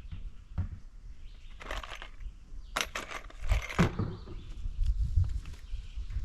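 A few short rattling, clattering noises from hands-on building work, the loudest about three to four seconds in, over low handling rumble.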